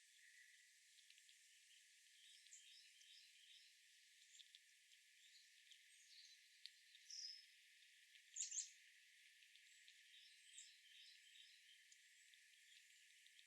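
Faint outdoor ambience with small birds giving scattered short, high chirps, the clearest a few seconds in and a pair a little later, over a steady hiss.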